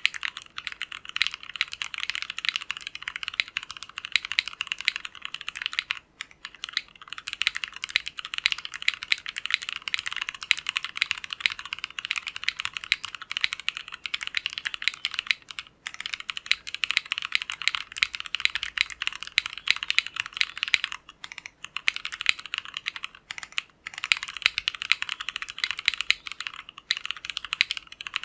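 Fast, continuous typing on an Ozma60 mechanical keyboard with Tecsee Jadeite switches: a dense run of keystroke clacks, broken by a few brief pauses.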